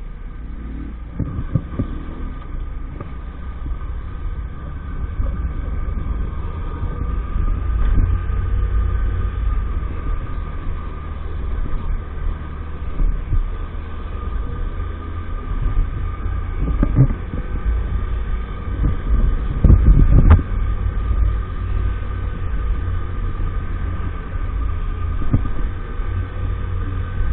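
A 50cc motorbike's small engine running steadily while riding, with heavy wind buffeting on the microphone and a few louder bumps.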